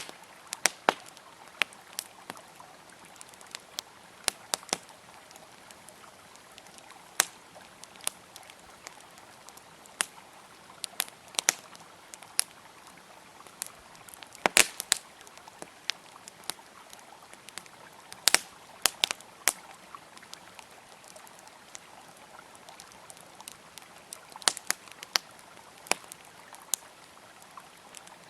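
Campfire crackling with irregular sharp pops and snaps, some louder than others, over the steady rush of a flowing river.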